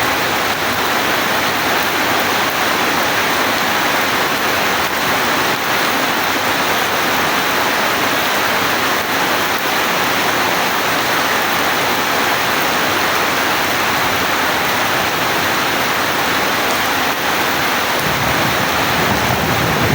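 Steady rain falling, a loud, even hiss. Near the end a faint low rumble of thunder begins to build.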